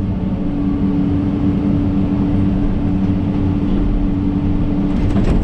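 John Deere 130G excavator's diesel engine running steadily, with a steady hum from the machine. A sharp knock or clank comes near the end.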